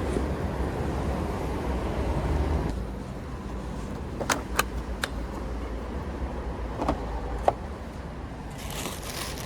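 Motorcycle engine running with a steady low rumble that turns quieter about three seconds in, with several sharp clicks and knocks in the middle and a brief hiss near the end.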